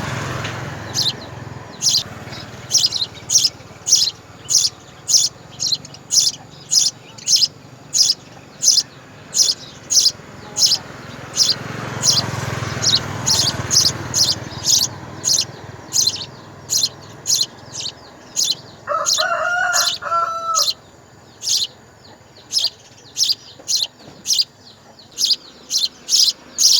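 Baby birds cheeping over and over, short high chirps about twice a second, the begging calls of hungry nestlings. About two-thirds of the way in, a lower call with a wavering pitch sounds for a couple of seconds.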